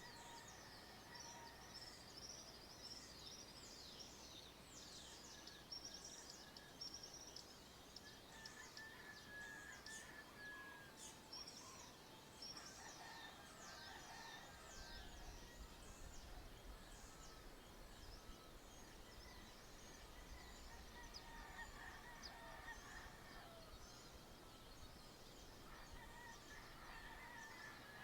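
Faint dawn chorus of birds: many quick, high chirps and down-slurred whistles overlapping, with lower calls coming and going.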